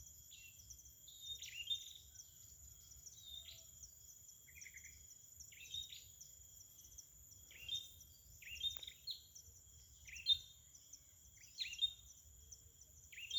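Perenjak (prinia) giving short, sharp chirps that sweep downward, repeated about once a second, over a steady high insect drone.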